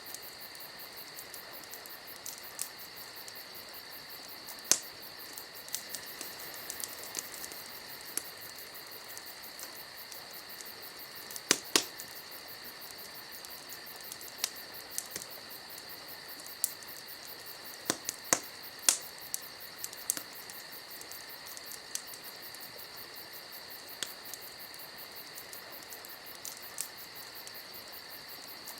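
Wood fire crackling, with irregular sharp pops, loudest in a cluster near the middle and again about two-thirds through, over a steady high-pitched whine.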